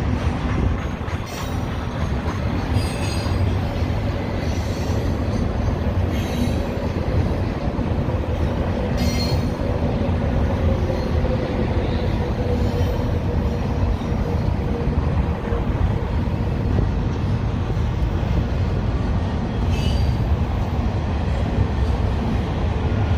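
Double-stack container cars of a Union Pacific intermodal freight train rolling past close by: a steady rumble of wheels on rail, with a faint wheel squeal wavering through the middle and a few sharp clanks here and there.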